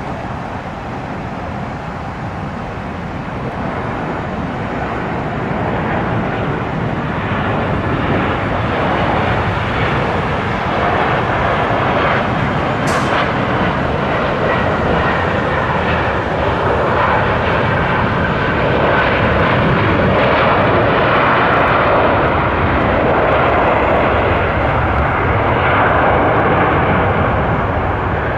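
Airliner engine noise building up over several seconds, then holding loud and steady. A brief sharp click comes a little under halfway through.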